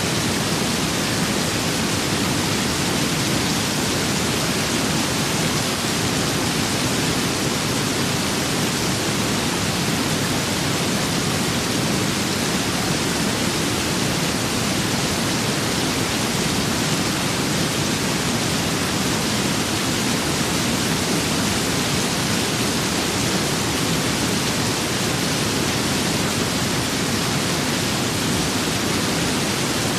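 Steady rain with wind: an even, unbroken hiss with no single drops, gusts or thunder standing out.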